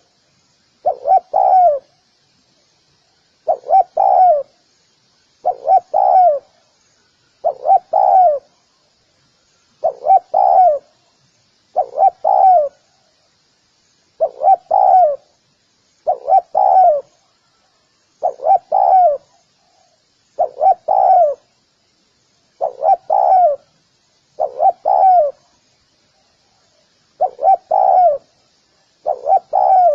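Spotted dove cooing, repeating its short two- or three-note call about every two seconds, each call ending in a falling note.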